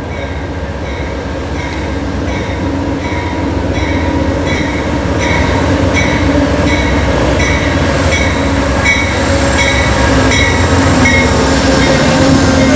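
Train running along the track, its wheels clicking on the rails about twice a second over a steady rumble, getting louder as it approaches.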